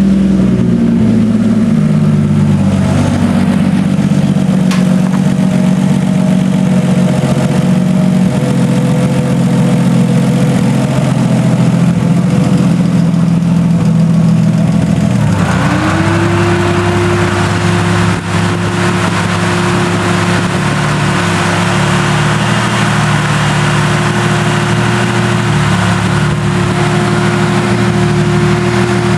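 Rebuilt Nissan RB25DET turbocharged 2.5-litre straight-six running steadily, which the owner has filmed for a noise, a tick, that appeared after the rebuild. About halfway through, a steady tone glides up and holds, and a hiss joins in above the engine.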